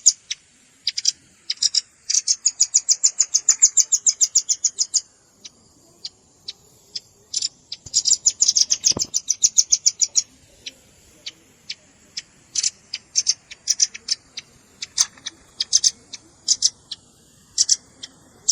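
Velvet-fronted nuthatch calls: rapid trills of short, high, sharp notes at about eight a second in bursts of one to three seconds, with scattered single notes between the trills.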